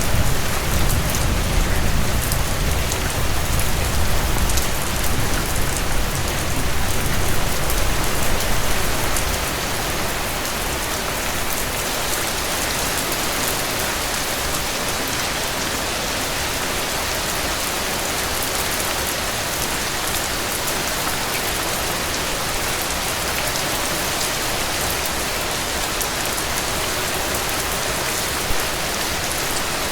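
Heavy rain falling steadily on a surface, a dense even hiss of drops. A low rumble sits under it for roughly the first ten seconds, then fades out, leaving only the steady rain.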